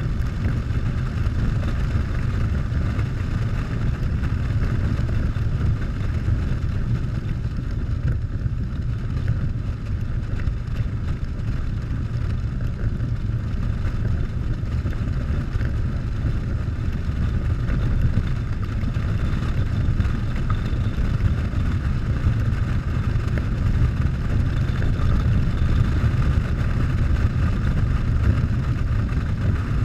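Harley-Davidson Softail V-twin engine running at a steady pace while the bike is ridden, a constant low rumble under an even rush of wind and road noise.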